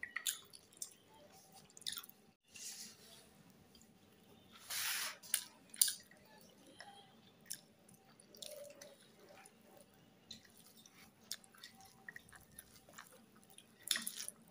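Quiet close-up chewing while eating, with small wet mouth clicks and a short hiss about five seconds in.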